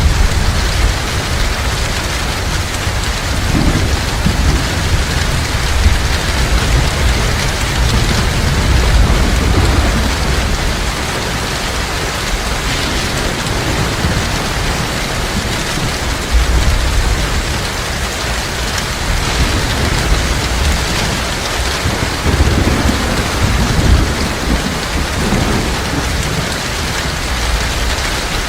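Heavy rain falling steadily, with low thunder rumbling underneath that swells and fades several times.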